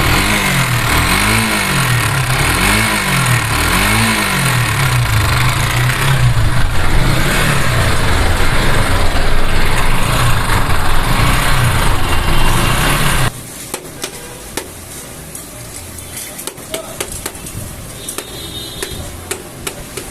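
Bajaj Pulsar AS motorcycle engine running rough and being revved: the pitch rises and falls three times in quick blips, then holds at a higher speed before the engine is switched off suddenly about 13 seconds in, leaving only faint ticking. The engine is in a very bad condition, its noise the reason it is due for a full engine rebuild.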